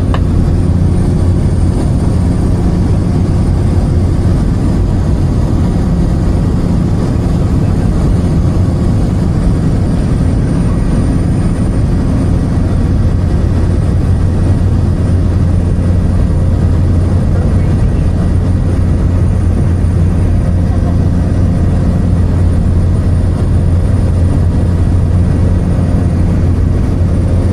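Light aircraft's engine droning steadily at an even pitch, with a strong low hum.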